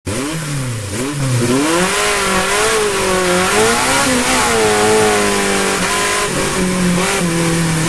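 Ford 312 Y-block V8 engine revving, its pitch rising and falling again and again before holding steadier toward the end.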